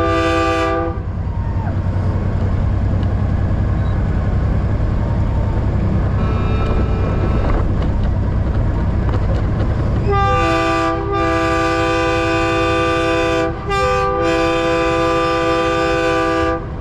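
Truck-mounted multi-chime train horn on a semi sounding a chord: a blast ending just under a second in, then a long blast from about ten seconds in, broken twice briefly. Under it runs the steady low rumble of diesel truck engines.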